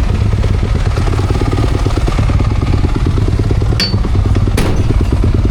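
Motocross bike engine running, a dense rapid firing pulse with two short sharp knocks about four seconds in.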